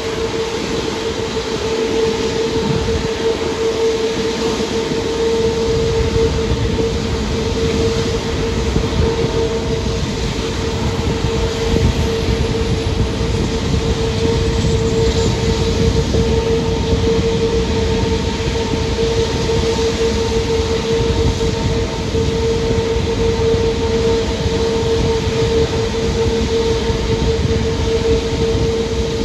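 Train running steadily at speed: a continuous rumble and rush with a steady whine held at one pitch.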